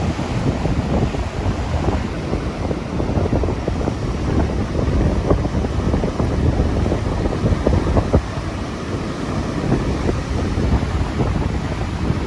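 Strong typhoon wind buffeting the microphone in gusts, with heavy surf crashing on the rocky coast beneath it.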